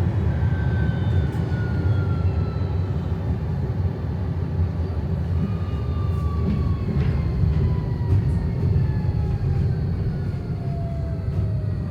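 Train running with a steady low rumble, over which a faint whine slowly falls in pitch, a few times over.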